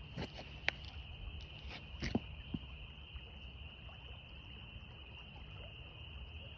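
Evening chorus of many frogs calling at once, a steady high-pitched trill that does not let up. A few short sharp clicks stand out in the first three seconds.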